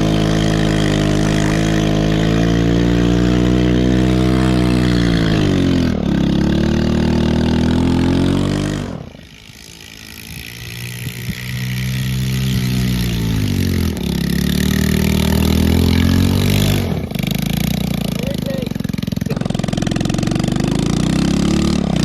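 Small 110cc single-cylinder four-stroke ATV engine revving hard with its exhaust fallen off, the pitch climbing and sagging repeatedly as the quad is slid around. About nine seconds in the engine note drops away sharply, then builds back up over a couple of seconds to full revs again.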